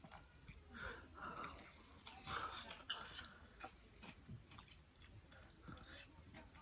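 A person chewing food close to the microphone: faint, irregular wet mouth clicks.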